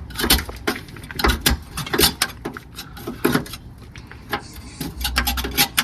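Irregular clicks, knocks and light scrapes of hand work against the car's metal underside, several a second, with a brief low rumble near the end.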